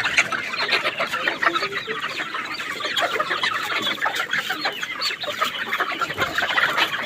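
A large flock of young Golden Misri chickens, about two months old, peeping and clucking without pause, many short calls overlapping.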